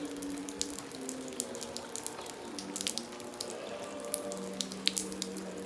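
Heavy rain pouring down, with many sharp drips and splashes close by. A faint held pitched sound runs underneath, with one low steady tone near the end.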